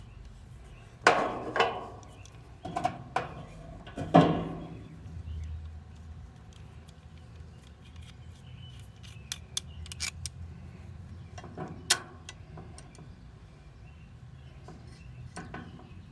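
Metal tools and parts being handled: a run of sharp clinks and clacks in the first four seconds, the loudest about four seconds in, then scattered light metallic ticks.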